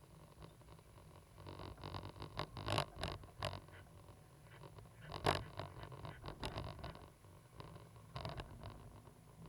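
Cat 320GC excavator running with a low steady engine hum, with scraping and clattering over it and a few sharp knocks, the loudest about five seconds in.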